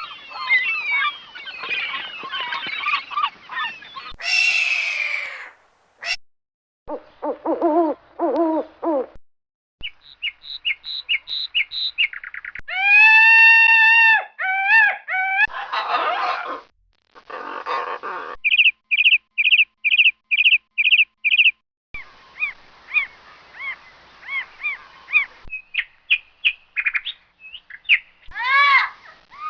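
A series of separate animal and bird call recordings played one after another with short gaps: twittering birdsong, a short screech, honking calls, runs of evenly repeated calls and a long held call.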